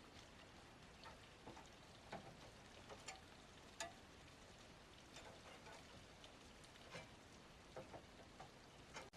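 Near silence: low background hiss with faint, irregular light ticks and taps scattered through it.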